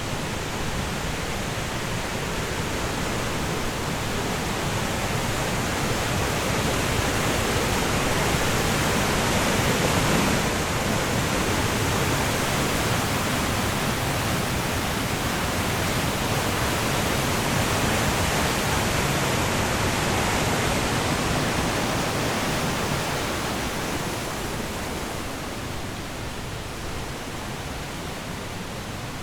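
Rushing water, a steady dense hiss spread across all pitches that swells a little toward the middle and eases off near the end.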